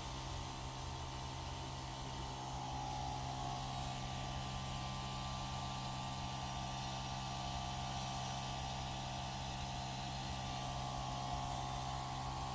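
A steady machine hum with a constant low drone and a fainter higher whine over a noise hiss, holding level throughout.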